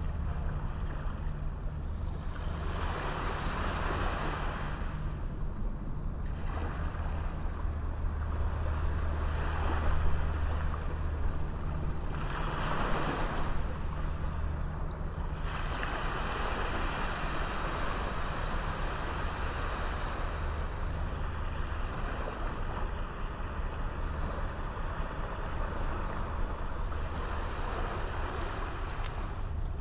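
Small sea waves washing onto a beach, the surf swelling and fading every few seconds, over a steady low rumble of wind on the microphone.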